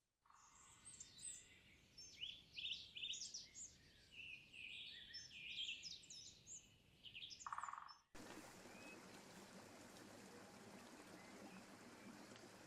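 Woodland birds singing and calling: many short chirps and trills overlapping. About eight seconds in the birdsong cuts off and a steady, even hiss takes over.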